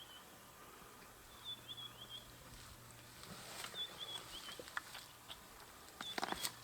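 Birds chirping: short high notes in brief runs, with scattered clicks and a cluster of sharp cracks near the end, over a faint steady low hum.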